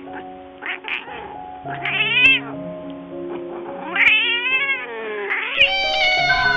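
A cat meowing three times over soft background music: a short call about two seconds in, a longer call that falls in pitch about four seconds in, and a long call near the end.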